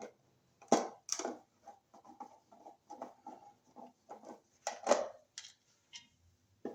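Irregular clicks, knocks and scrapes of a screwdriver, cover plate and wall receptacle being handled as the receptacle is opened up to inspect its wiring. The loudest knocks come about a second in and again near five seconds.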